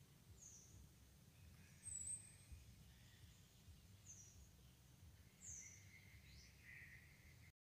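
Faint outdoor quiet with a few short, high bird chirps scattered through it, the loudest about two seconds in; the sound cuts off suddenly near the end.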